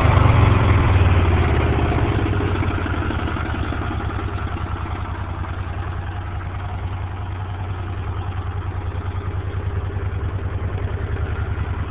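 1980 Honda CX500 Deluxe's V-twin engine running. It is louder at first and settles over the first few seconds into an even, pulsing idle.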